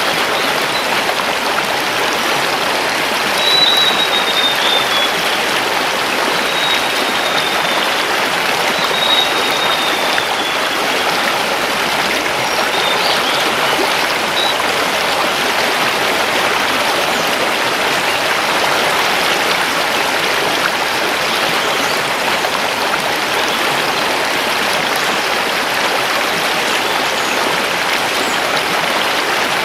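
A mountain river flowing over stones: a steady, even rush of water. In the first third a bird gives a few thin, high, slightly falling calls over it.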